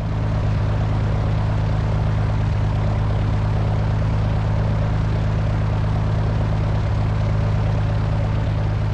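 Single-engine Cessna 172's six-cylinder Continental O-300 and propeller running at low, steady taxi power, a constant low hum with no change in pitch.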